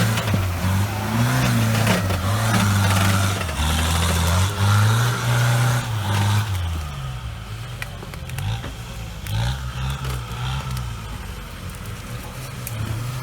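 Off-road vehicle's engine revving up and down under load, louder for the first six seconds or so, then easing to a lower, quieter running.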